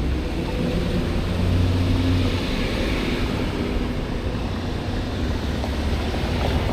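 Road traffic noise: a passing motor vehicle's engine and tyres, swelling about two to three seconds in, over a steady low rumble.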